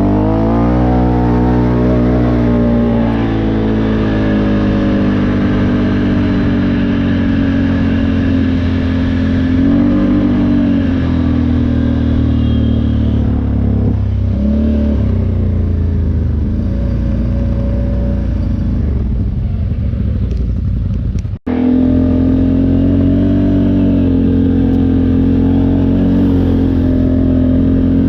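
ATV engine running under throttle while riding, its pitch climbing as it speeds up at the start, then holding fairly steady with small rises and dips as the throttle changes. The sound drops out for a split second about 21 seconds in.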